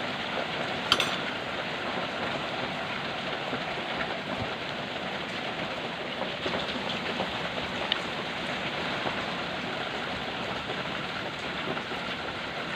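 Heavy rain falling steadily, a dense even hiss, with two sharp clicks, one about a second in and one near eight seconds.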